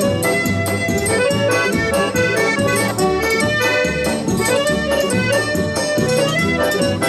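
Instrumental forró passage: accordion playing the melody over a steady, even percussion beat.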